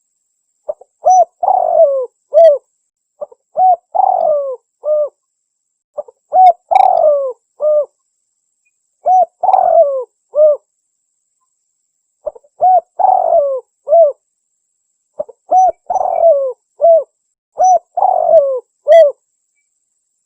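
Spotted dove (tekukur) cooing, a lure call for hunting. About seven phrases come at even spacing, each a couple of short coos, a longer falling coo and a short closing coo, with silence between them.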